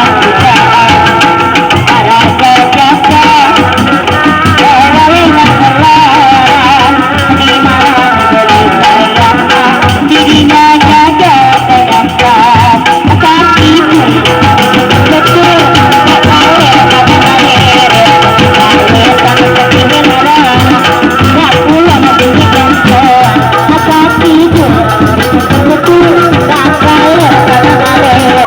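Loud live kuda lumping accompaniment music: drums and rattles beating steadily under a wavering melody.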